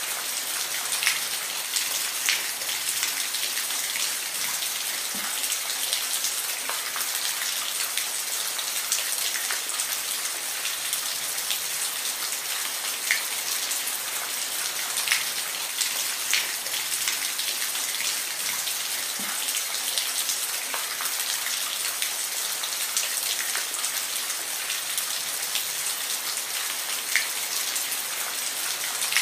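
Steady rain falling, a constant hiss with individual drops ticking sharply on a hard surface here and there.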